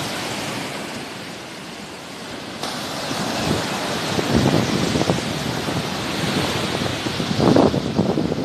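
Sea waves washing onto the shore in a continuous hiss of surf, easing about two seconds in and then building to a louder wash near the end, with some wind on the microphone.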